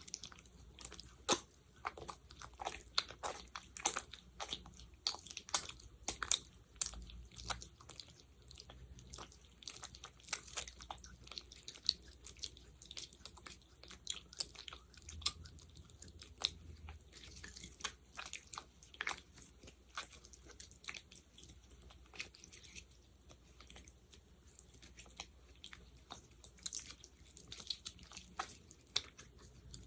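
Sticky gel worked close to the microphone for ASMR, fingers pressing into it and pulling apart: dense, irregular crackling clicks, several a second.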